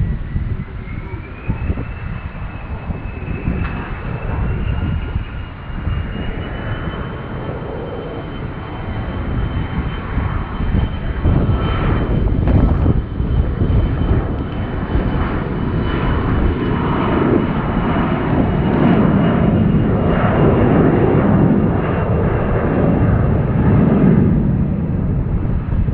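Jet airliner engines spooling up, a high whine rising in steps, then holding steady while a deep roar builds and grows louder through the second half.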